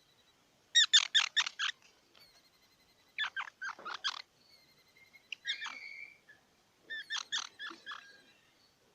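Squirrel calling in quick series of sharp chirps, in four bursts of about a second each with short pauses between.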